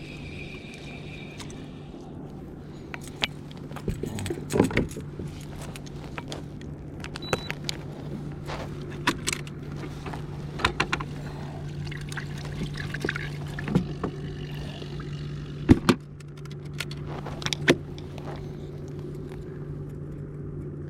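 Sharp clicks, knocks and clinks from fishing tackle and gear being handled in a plastic kayak, scattered irregularly over a steady low hum.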